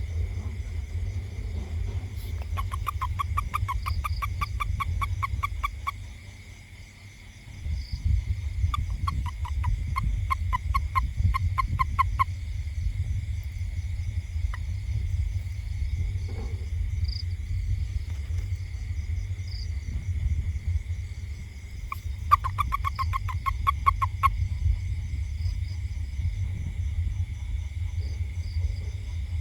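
A toad calling: long trains of rapid, evenly spaced pulses in one pitch, each lasting about three to four seconds, heard three times. A steady low rumble runs underneath.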